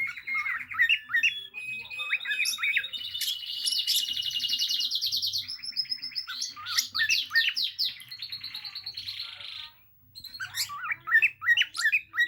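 Pet cage birds chirping and singing together, with fast trills and quick runs of repeated notes, stopping briefly about ten seconds in before starting up again.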